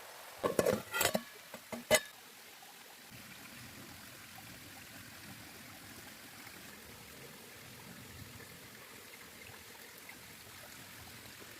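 A handful of sharp clattering knocks in the first two seconds, then a faint, steady rushing noise.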